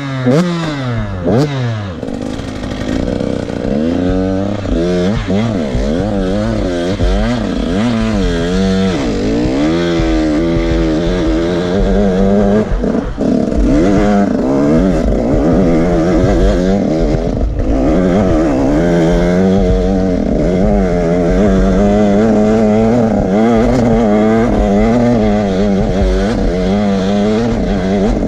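KTM 150SX two-stroke single-cylinder dirt bike engine under constant throttle changes, its revs rising and falling every second or so.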